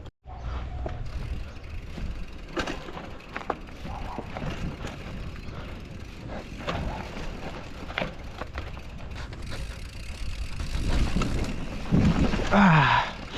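Mountain bike riding down a dirt trail: a continuous low rumble of tyres over rough ground, with scattered sharp knocks and rattles as the bike hits bumps. Near the end a louder, short burst with a falling pitch, likely the rider's voice.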